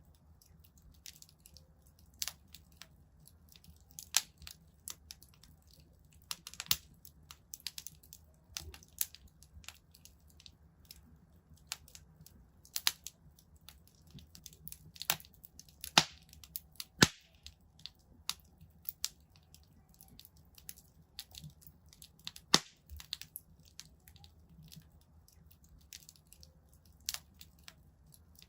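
Wood fire crackling in a fireplace: irregular sharp pops and snaps, a few much louder ones about halfway through, over a faint low hum.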